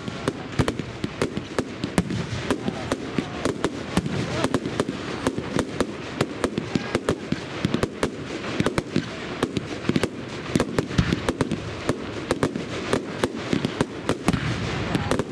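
Fireworks display: a rapid, irregular barrage of sharp bangs and crackles, several a second, with no let-up.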